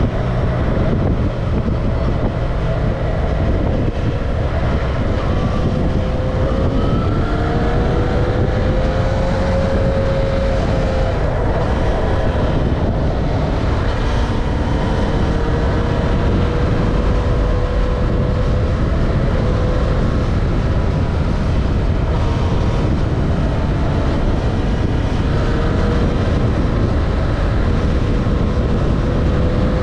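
Yamaha XJ6's inline-four engine running under way, its note slowly rising and falling with the throttle, under a steady rush of wind and road noise.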